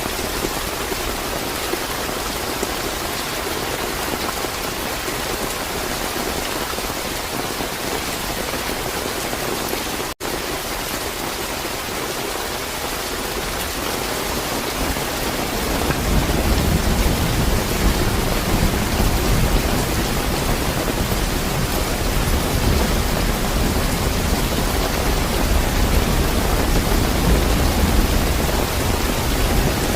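Steady heavy rain, with a low rumble of thunder coming in about halfway and lasting to the end. There is a momentary dropout in the sound about ten seconds in.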